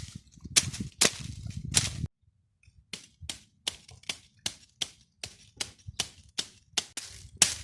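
Sharp chopping strikes on wood: a few heavy blows, a sudden break about two seconds in, then a fast, even run of lighter strikes at about four a second.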